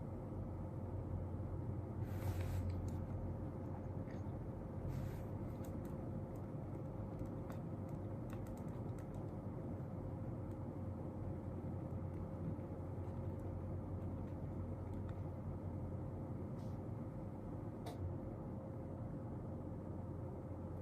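Steady low hum of room tone carrying a faint steady tone. Over it, two brief rustles come about two and five seconds in, and scattered light clicks follow, from someone working quietly at a desk.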